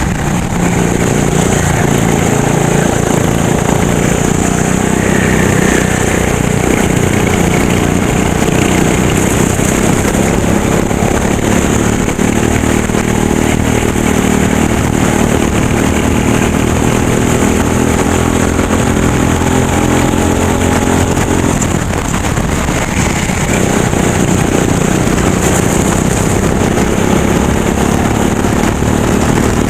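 Racing go-kart engine at full speed, its pitch climbing steadily along a straight and dropping sharply about two-thirds of the way through as the throttle is lifted for a corner, then building again.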